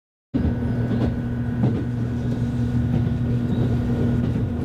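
Running noise of an express train heard inside the passenger car: a steady low rumble with a constant hum and a fainter high tone. It starts just after the beginning, with a couple of faint knocks from the track.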